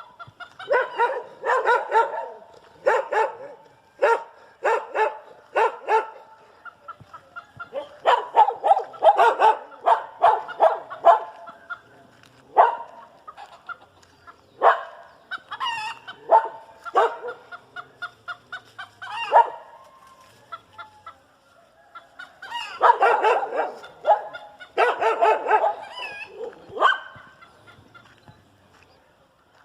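Farmyard animals calling in repeated bursts of short, sharp calls: dogs barking and chickens clucking.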